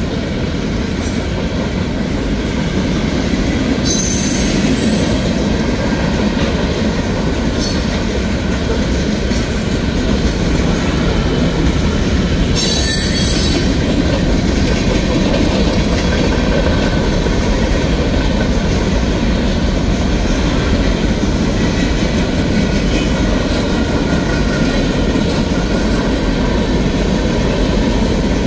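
Freight cars of a CSX mixed manifest train rolling past at speed: a steady, loud rumble of steel wheels on rail, broken by several brief high-pitched wheel squeals, the longest about 13 seconds in.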